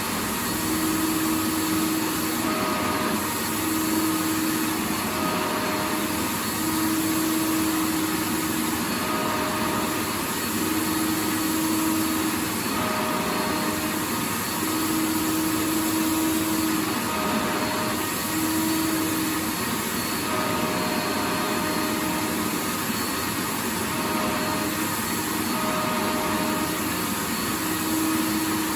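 Vacuum cleaner running steadily, a dense rushing noise with a motor hum that fades in and out every second or two.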